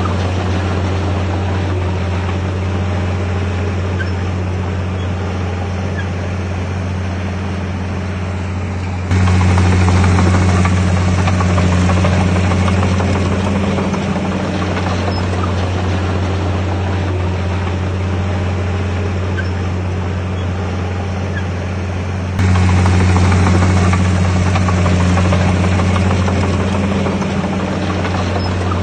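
Bulldozer diesel engine running steadily with a low, even drone. The sound steps suddenly louder twice, about nine and twenty-two seconds in.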